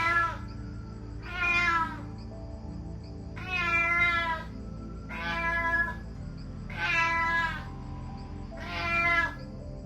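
A kitten meowing five times, each meow short and spaced about one and a half to two seconds apart.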